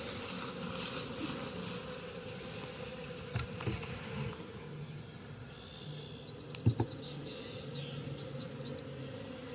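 Honeybees buzzing steadily around an opened hive during a colony split, with a couple of sharp knocks, the loudest about seven seconds in.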